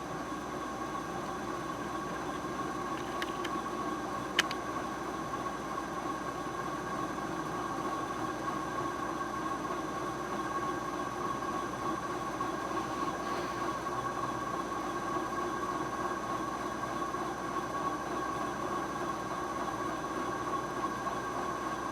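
SMC X-42 42-inch ceiling fan running steadily on its medium speed, a smooth, quiet running sound from bearings in good condition. A single sharp click sounds about four seconds in.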